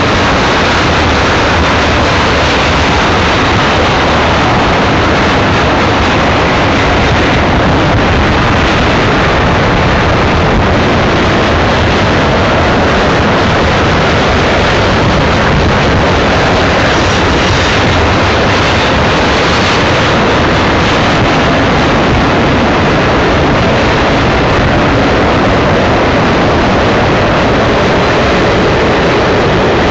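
Cars of a BNSF double-stack container train rolling downgrade past the track, a loud, steady rush of steel wheels on rail that does not change.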